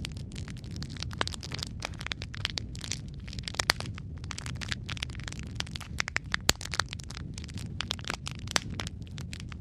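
Wood fire crackling in a fireplace: a steady low rumble of flames with frequent irregular sharp pops and snaps, a few louder pops standing out.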